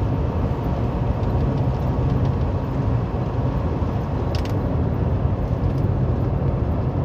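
Semi-truck diesel engine running on its Jake (engine compression) brake on a downgrade, heard from inside the cab as a steady low drone.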